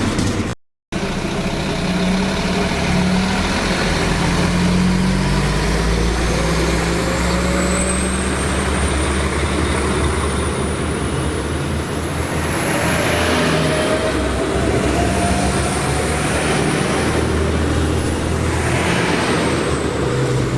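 A train running by, a continuous rumble with a high thin whine that climbs slowly in pitch over several seconds and then eases down. A brief dropout cuts the sound under a second in.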